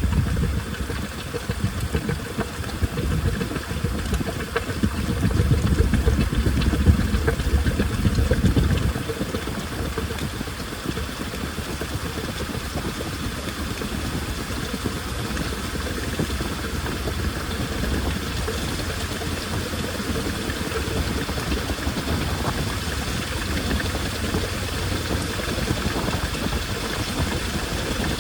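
Washing machine running a cycle, its drum turning with a steady motor hum and water washing about inside. A heavier low rumble for about the first nine seconds then settles into a quieter, even running.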